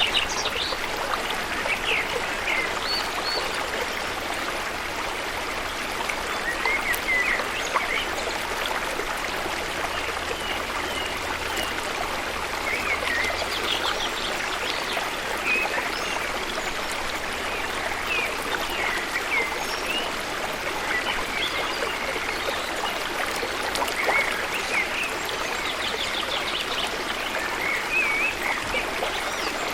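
Steady rush of flowing water from a stream or waterfall, with many short bird chirps scattered throughout.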